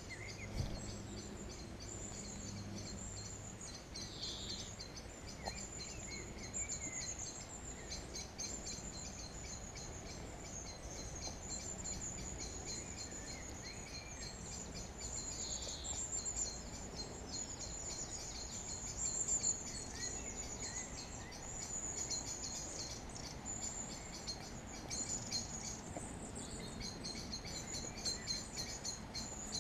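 Woodland birdsong: a continuous, rapid, high-pitched chirring trill, with several birds calling in short chirps and whistles over it. A faint steady rumble of distant traffic lies underneath.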